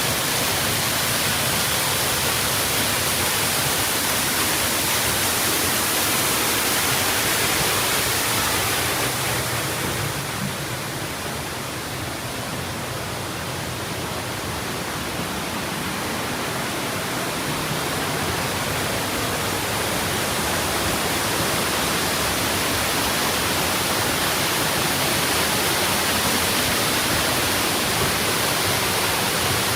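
Waterfall rushing: a loud, steady roar of falling water that eases for a few seconds partway through, then comes back up.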